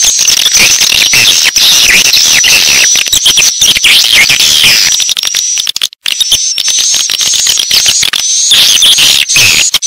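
Swiftlet-house lure call: dense, loud twittering and chirping of a colony of edible-nest swiftlets, with a brief gap about six seconds in.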